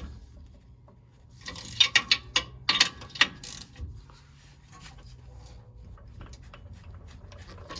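Ratchet wrench clicking in quick runs of strokes, then lighter scattered ticks, as a tight threaded part is worked.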